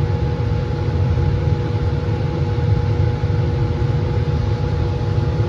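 Laminar flow hood's blower fan running with a steady, even roar, mostly low rumble with a faint constant hum on top.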